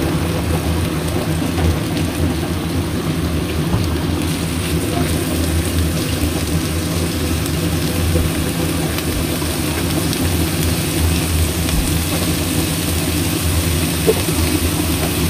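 Small salted squid sizzling in oil in a wok with chilies and garlic, with an occasional pop, over a low steady hum.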